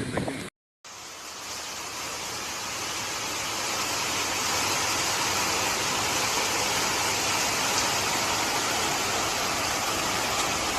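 Steady rush of floodwater, an even hiss that builds over the first few seconds and then holds.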